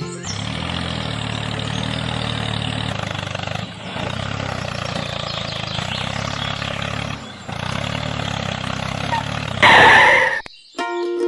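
Small engine running steadily, dipping briefly twice. A short loud burst near the end is the loudest moment.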